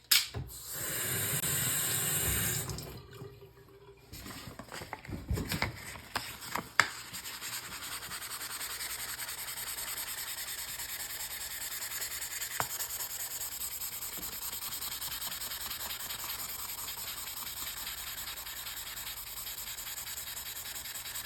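Sandpaper being rubbed by hand against a steel knife blade to sand out scratches. A louder stretch of rubbing in the first couple of seconds, a few knocks a few seconds in, then steady, even strokes of sanding.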